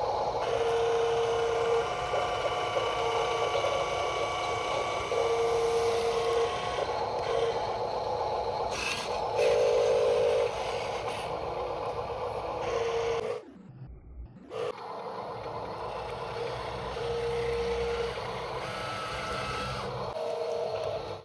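Radio-controlled construction models working: small motors and gears whining, with a tone that starts and stops several times, over a steady mechanical scraping.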